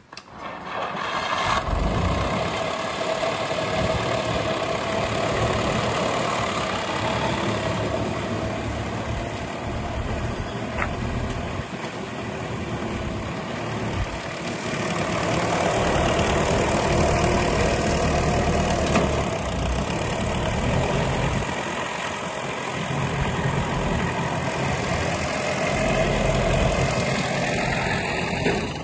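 Grey Ferguson tractor's diesel engine running steadily, its level swelling and easing a few times.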